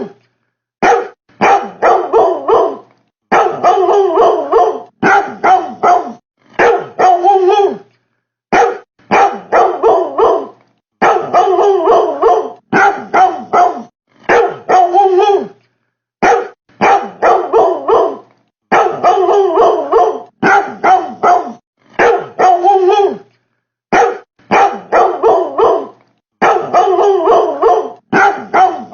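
Dog-like barking, which the title attributes to a refrigerator: short barks in quick clusters of two to five, each cluster followed by a brief complete silence, repeating evenly over and over like a loop.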